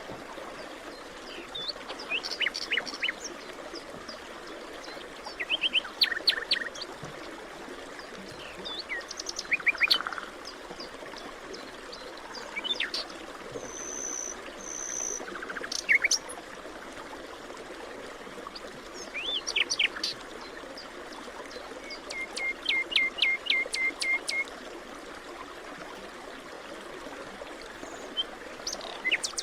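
Forest birds calling and singing in short chirping phrases every few seconds over a steady background hiss. Two high whistles come about midway, and a rapid trill of about five notes a second follows later.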